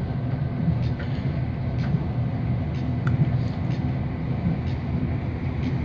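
Steady low rumble heard inside the carriage of a moving Irish Rail ICR diesel railcar: the running noise of wheels on track and the underfloor engine, with faint scattered ticks.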